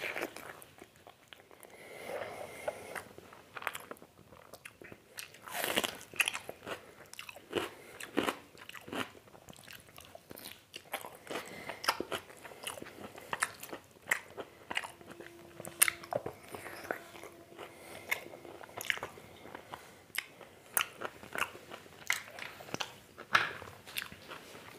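Close-miked chewing of a mouthful of mutton curry and rice: wet mouth smacks and irregular clicks, several a second.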